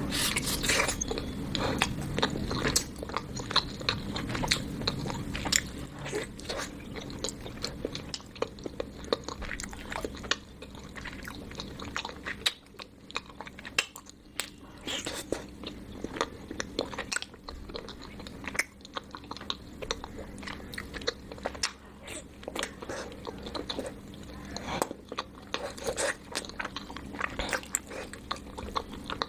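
Close-miked eating: repeated bites and chewing of chocolate dipped in hot chocolate, heard as many short, sharp mouth clicks and crunches throughout.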